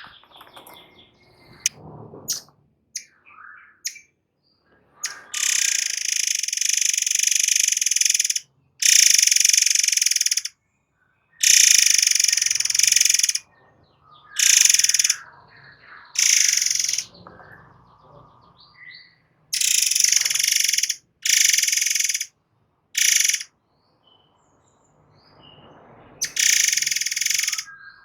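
Forktail (murai air) giving a series of loud, harsh, hissing shrieks, each lasting one to three seconds, about nine in all with short gaps, and a few short faint chirps between them, mostly in the first few seconds.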